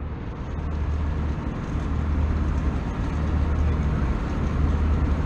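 Steady cabin noise inside a JetBlue Airbus A320: a deep, even rumble of the engines and rushing airflow heard from a passenger seat.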